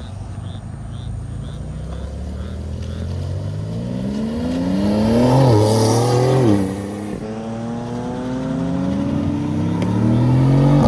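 A car engine accelerating hard, its pitch climbing steadily for several seconds, wavering briefly, then cutting off suddenly. A second long climb in pitch follows.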